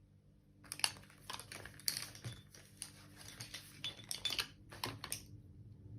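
Paintbrushes rattling and clinking against one another and their holder as one brush is picked out from among them: a run of quick, irregular clicks and knocks that stops about five seconds in.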